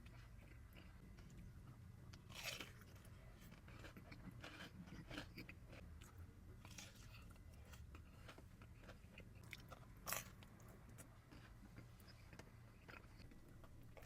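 Close-miked eating: a person biting and chewing pizza, with sharp crunches of the crust now and then, two of them louder, about two and a half seconds and ten seconds in.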